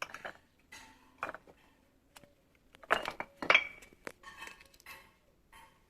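Irregular clinks and scraping knocks, like hard objects being knocked or stepped on, with a louder cluster about three seconds in that rings briefly.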